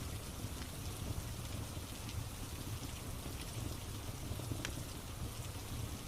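Steady rain mixed with a crackling log fire: an even hiss over a low rumble, with scattered sharp crackles and a louder pop a little past halfway.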